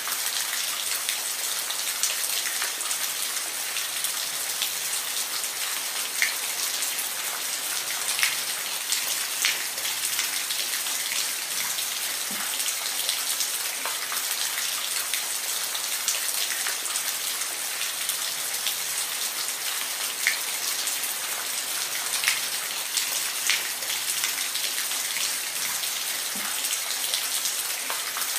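Steady rain falling, a continuous hiss with individual drops ticking loudly on a surface now and then.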